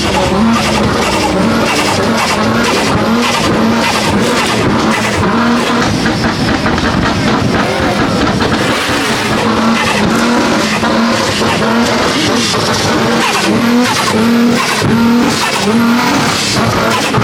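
Loud car engines running and revving, with a dense, steady noise and a short low tone that repeats every half second or so.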